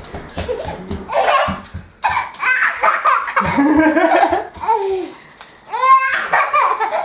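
A young child laughing and squealing in bursts, with a high-pitched squeal about six seconds in.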